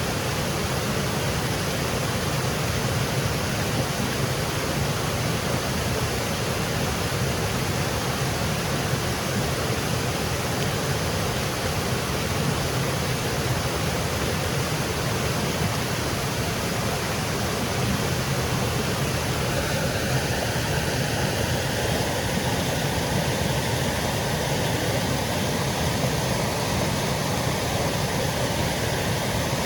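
Small woodland waterfall, water cascading in a steady, even rush.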